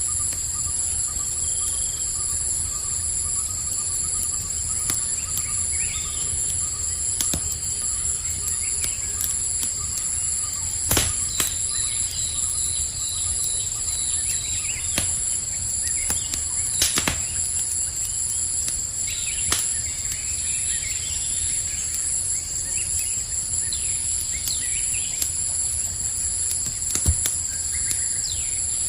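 Campfire crackling, with a few sharp pops, over a steady chorus of night insects trilling high. Faint bird chirps come and go.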